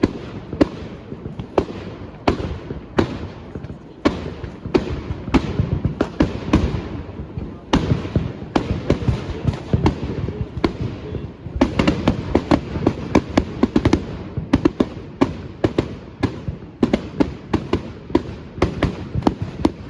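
Firework display: a continuous, irregular run of sharp bangs and shell bursts over a low rumble, with a denser flurry of bangs about twelve seconds in.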